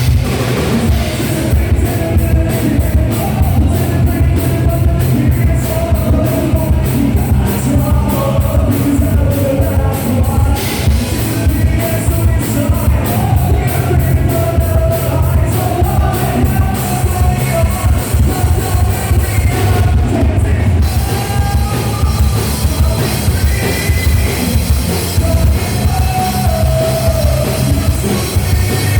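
Live rock band playing loud and fast: drum kit, distorted electric guitars and bass, with a wavering melody line over the top.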